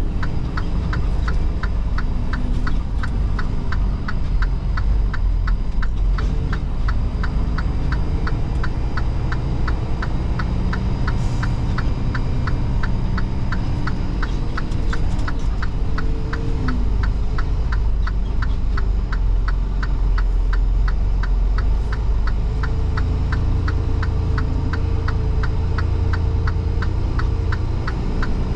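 A semi truck's engine droning inside the cab, its pitch shifting slowly, with the turn-signal relay ticking quickly and evenly throughout.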